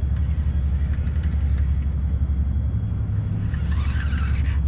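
Steady low rumble and hum of large machinery, a big engine running at a constant pace.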